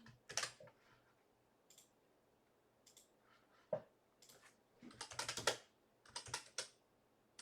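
Typing on a computer keyboard in short, irregular runs of key clicks, with a few single clicks between them; the busiest run is about five seconds in.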